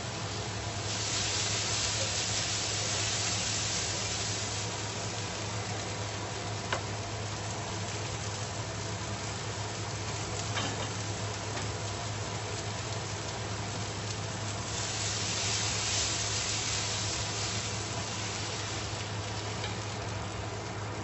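Sliced red onion, cherry tomatoes, green beans and garlic sizzling in a frying pan, the sizzle swelling louder twice as the vegetables are stirred, with a couple of light clicks of the pan.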